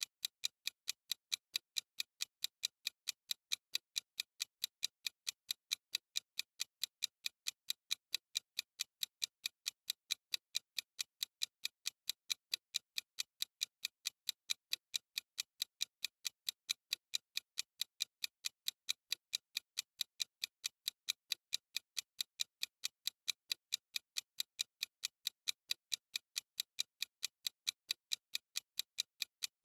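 Clock-like ticking sound effect of a countdown timer: sharp, crisp ticks at an even pace of about two a second.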